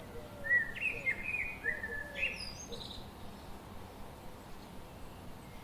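A songbird singing a short phrase of quick chirping notes for the first few seconds, over a steady background hiss, with a few fainter lower calls beneath.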